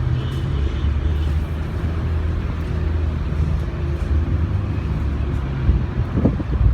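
Low, steady hum of a nearby motor vehicle's engine running, over a rough background of wind and traffic noise.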